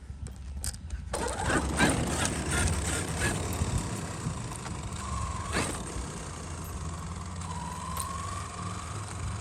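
Traxxas XRT radio-controlled truck driving hard on gravel, starting up about a second in. Its brushless motor and drivetrain whine rises and falls with the throttle, over the crunch and spray of gravel under the tyres.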